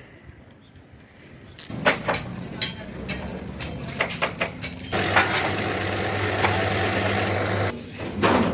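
Engine running steadily, with sharp metal knocks and clicks around it; the engine sound comes in about halfway and cuts off abruptly near the end.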